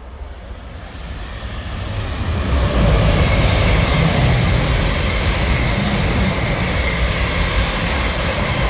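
A train approaching and passing at speed. The rumble builds over about three seconds, then holds loud with a steady high whine over it.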